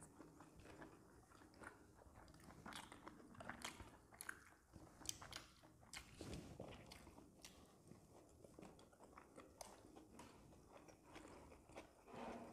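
Faint chewing and biting of momos (steamed dumplings), with irregular wet mouth clicks and smacks.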